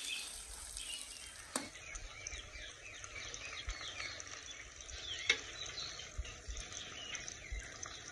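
Onions frying in ghee in a kadai, a faint steady sizzle with a couple of sharp clicks. Birds chirp faintly in the background.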